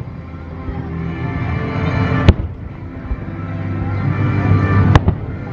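Aerial firework shells bursting: two sharp bangs, one about two seconds in and one near the end, over steady music.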